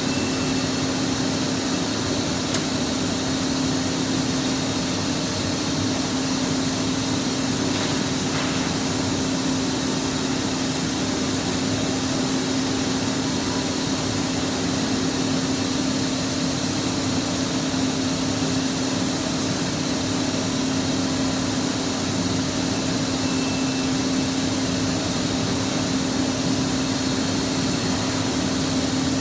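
Boiler firing under test: a steady hiss with a constant low hum that does not change.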